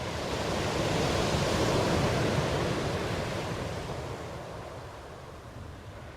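Ocean waves: a single swell of surf noise builds over the first second or so, peaks, then slowly washes away over the next few seconds.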